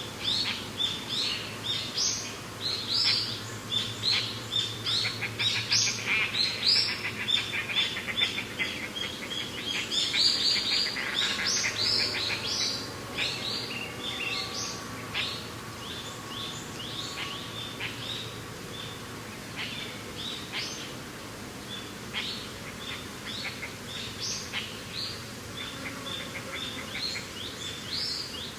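Many small birds chirping in quick, short notes, densest in the first half and thinning out later, over a steady low background of mountain wind.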